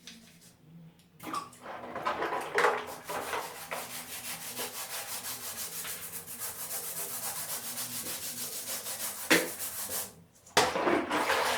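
A toothbrush scrubbing small plastic Lego pieces with toothpaste in rapid back-and-forth strokes, bristles rasping against the plastic. The scrubbing stops briefly near the end.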